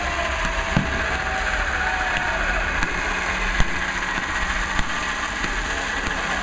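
Aerial fireworks going off over a steady rumble: several sharp bangs, the loudest about three and a half seconds in, and whistling glides from rising shells.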